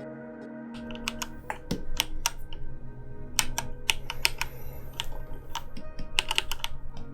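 Computer keyboard keys clicking in irregular runs, the key presses of an animator working in software, with soft background music underneath.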